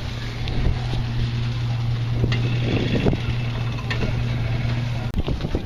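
An engine running steadily with a low, even hum, which cuts off suddenly about five seconds in.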